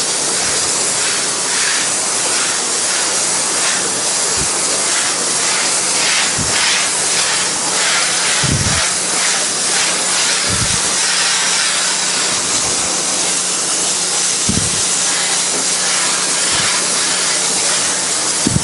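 Pressure washer wand spraying water through a low-pressure black soap tip, a steady hiss of spray rinsing a bleach-treated painted wood deck. A steady low hum runs beneath it, and a few dull low thumps come and go.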